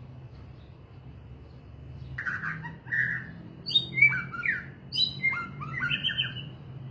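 A songbird singing a quick phrase of short whistled notes and falling slides, starting about two seconds in and loudest near the middle, over a low steady hum.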